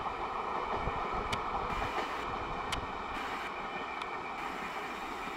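Express passenger train running through a station at speed, its rumble slowly fading as the last coaches pull away, with three sharp clicks about a second and a half apart.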